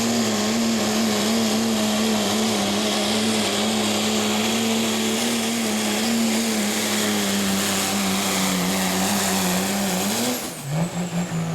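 Turbo-diesel pickup truck engine running at full throttle under load on a pulling sled, holding a steady, slightly wavering note. About ten seconds in, the throttle comes off: the engine note drops and a high whine falls away.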